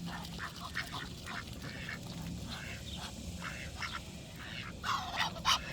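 A flock of ducks quacking, with short scattered calls and a louder run of quacks near the end.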